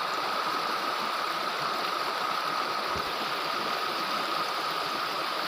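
Steady rushing of running water, like a stream or small waterfall, an even hiss with no change in level.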